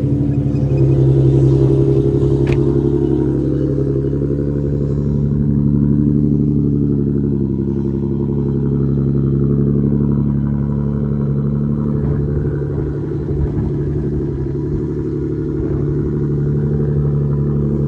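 Car engine idling steadily just after a cold start, warming up.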